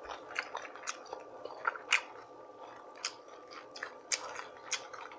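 A person chewing and biting food, with irregular wet smacks and crunchy clicks, the loudest about two seconds in.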